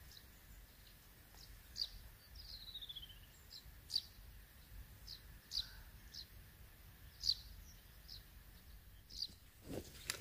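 Wild birds calling: short, high chirps every second or so, with one falling trill about two and a half seconds in, faint against a quiet background. A brief knock near the end.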